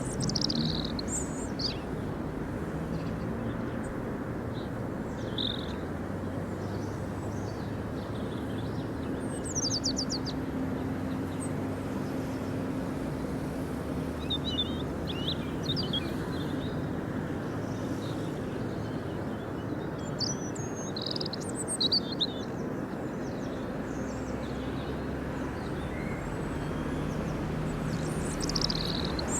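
Outdoor ambience: short bird chirps come every few seconds over a steady low background rumble.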